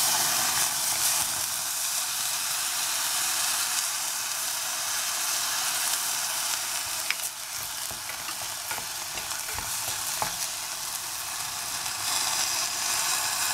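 Steady sizzle of chopped onion and green chillies frying in oil in a pressure cooker, as soaked moong dal is tipped in and stirred with a wooden spatula. A few light knocks of the spatula against the pan.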